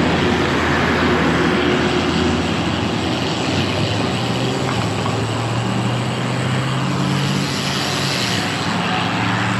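Motor traffic running past, engines and tyres, with a steady rush of wind noise over the microphone. The engine hum shifts in pitch about halfway through as vehicles come and go.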